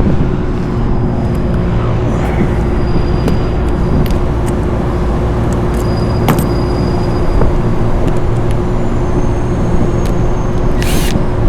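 Steady machinery drone with a constant hum and low rumble, with a few light clicks of handled metal parts over it, one clearer about six seconds in.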